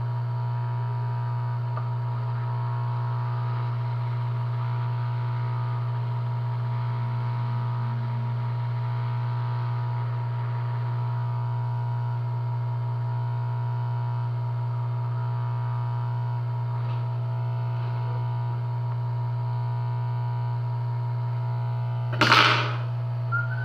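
Steady electrical mains hum with a buzzing overtone, unchanging throughout. Near the end, a single sharp clack, like a tool or part knocking on the bench.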